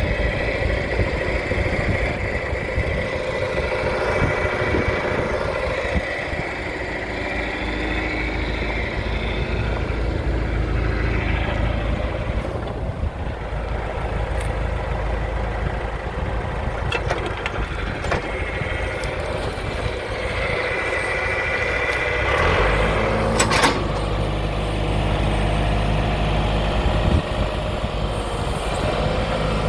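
John Deere 410-D loader-backhoe's diesel engine running steadily. About three-quarters of the way through, its note changes to a more even pitched drone, and there are a few sharp knocks.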